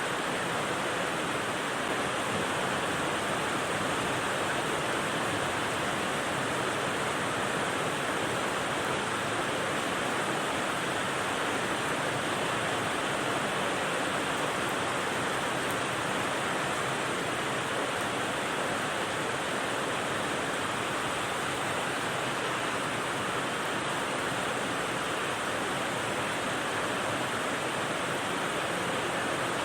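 Steady white-noise rain sound: an even, unchanging hiss with no separate drops, gaps or other events.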